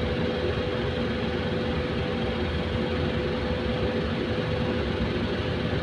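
Train running at a station: a steady low rumble with a steady mid-pitched hum over it.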